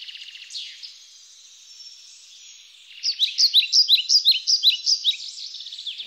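Birds chirping and twittering, softer at first, then a louder run of quick, repeated chirps, several a second, from about three seconds in.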